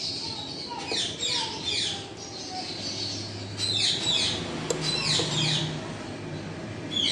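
Birds calling in several bursts of short, high calls that slide down in pitch, over a low steady hum.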